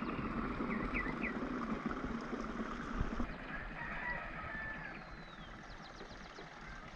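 A rooster crowing faintly, with a few short bird chirps, over a steady outdoor background hiss.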